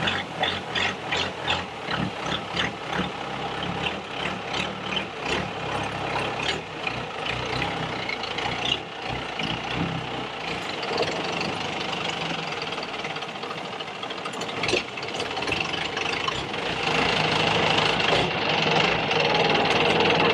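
Long-tail boat engine running loud under way, with a regular pulsing in the first few seconds that settles into a steady drone, louder again near the end.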